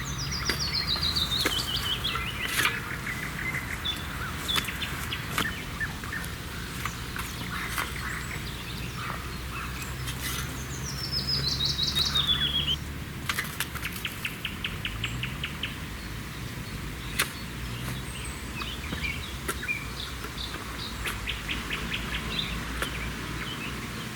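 Forest songbirds singing. Twice a bright run of notes falls quickly in pitch, and later come fast runs of evenly repeated notes. A low engine hum runs underneath and rises briefly about two-thirds of the way through.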